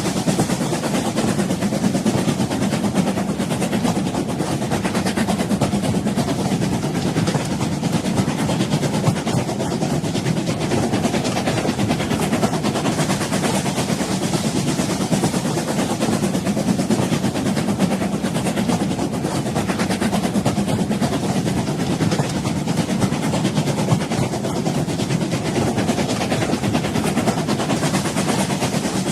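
Train running steadily on the rails, a continuous rumble with dense rattling and clatter that does not let up.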